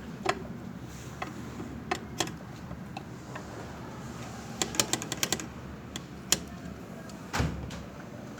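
Scattered sharp metallic clicks and taps as sewing-machine parts and tools are handled and fitted, with a quick run of clicks about five seconds in and a duller knock near the end.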